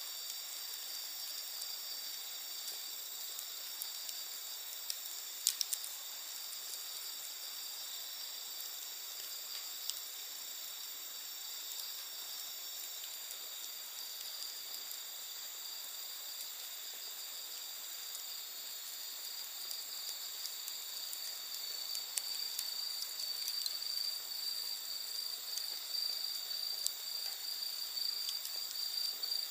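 A steady, high-pitched chorus of night insects, growing a little louder near the end, with a few sharp crackles and pops from a wood campfire, the loudest about five seconds in.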